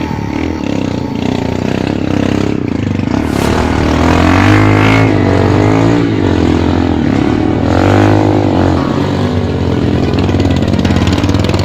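Trail dirt bike engine revving up and down, rising to higher revs twice, around a third and two-thirds of the way in.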